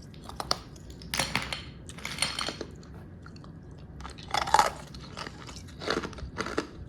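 Ice being bitten and chewed close to the microphone: a series of crisp crunches at irregular intervals, the loudest about four and a half seconds in.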